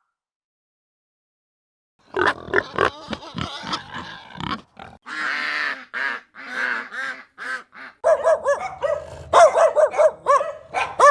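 After about two seconds of silence, a pig grunts and squeals in short, separate calls. About eight seconds in, quick repeated yips and yelps of a dog take over.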